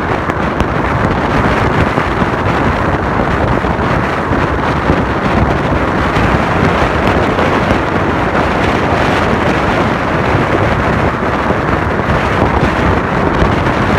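Loud, steady rushing wind noise buffeting the microphone of a moving car, with road rumble underneath; it starts and cuts off abruptly.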